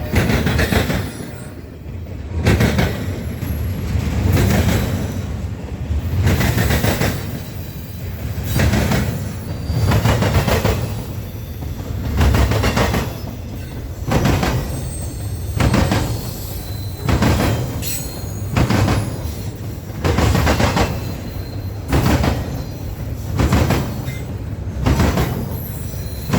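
A train rolling past, its wheels clattering over the rails in a regular rhythm, with a heavy surge about every one and a half to two seconds.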